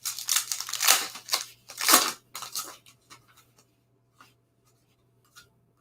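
Trading cards being handled: a run of quick slides and rustles over about three seconds, then only a few faint ticks.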